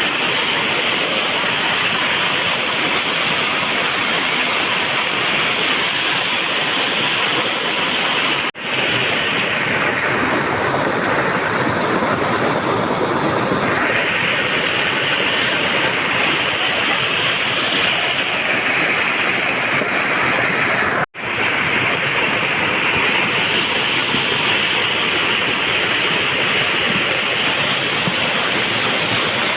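Flash-flooded mountain torrent (gadhera) swollen by heavy rain: a loud, steady rush of floodwater. The sound cuts out for an instant twice, about 9 and 21 seconds in.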